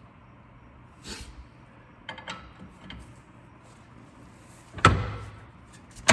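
Metal-on-metal work on a car's front suspension: a few light clicks, then one loud clank about five seconds in, as a bolt is worked through the lined-up holes of a new front strut and the spindle.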